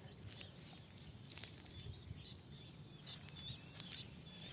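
Faint outdoor ambience with small birds chirping: many short, high, quick calls repeating throughout.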